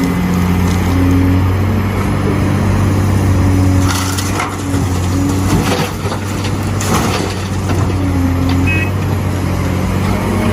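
Excavator's diesel engine running steadily under load while the bucket digs, with several bursts of crunching and cracking from material being broken and scraped, the clearest near the middle.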